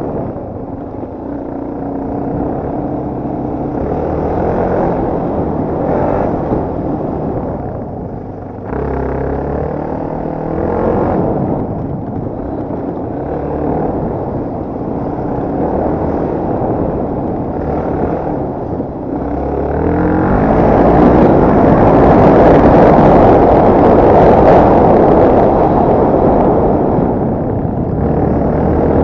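Off-road motorcycle engine being ridden, revving up and easing off, with its pitch rising and dropping as the throttle opens and closes. It grows louder and harsher from about twenty seconds in, held at higher revs.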